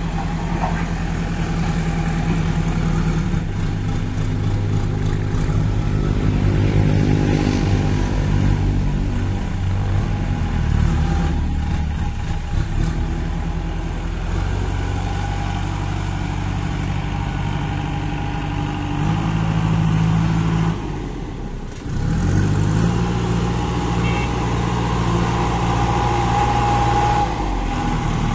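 Kirloskar diesel engine of a JCB 2DX backhoe loader running under changing load, its speed rising and falling. It drops sharply about three-quarters of the way through, then picks up again.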